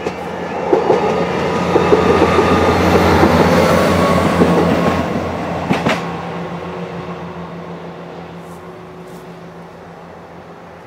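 Class 158 diesel multiple unit passing by. The diesel hum and wheel noise swell over the first two seconds, with a few clicks of wheels over rail joints, then fade away after about six seconds.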